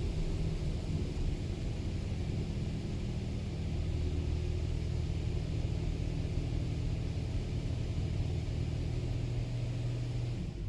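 High-pressure rinse water from a touchless car wash spraying against a truck's body, heard from inside the cab as a steady hiss over a low, even hum. The spray cuts off suddenly near the end.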